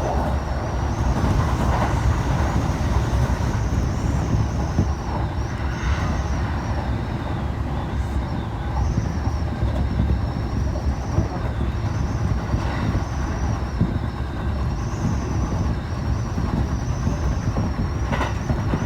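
Running noise of a moving train: a steady low rumble with a high, wavering whine above it.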